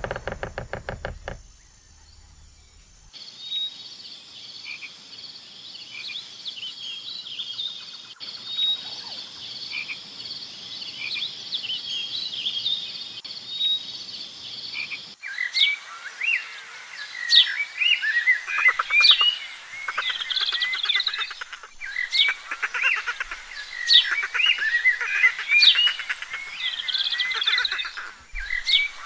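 A frog croaking in a short run of rapid pulses. Then comes a steady high trill with scattered chirps, and from about halfway on, a dense chorus of many birds chirping with quick falling calls.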